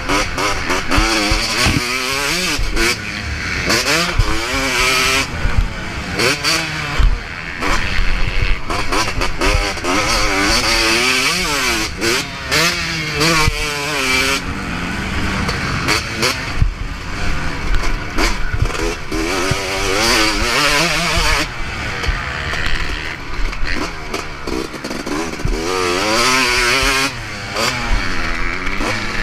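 Motocross bike engine revving up and falling back again and again as it is ridden through a track, over a rushing noise with scattered knocks.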